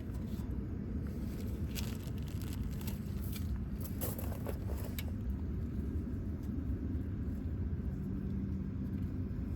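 Metal clinks and scrapes of hand tools and exhaust hardware as a new exhaust is bolted up, a few sharp clicks about two seconds in and again around four to five seconds in, over a steady low hum.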